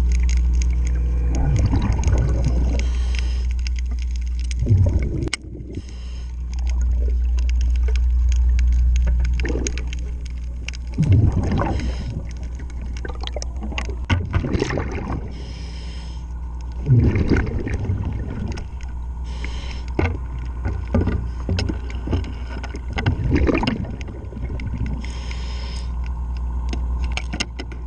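Underwater sound around a diver working on a boat's propeller: a steady low rumble, with gurgling surges of exhaled scuba bubbles every few seconds and a few sharp knocks, the clearest about five seconds in.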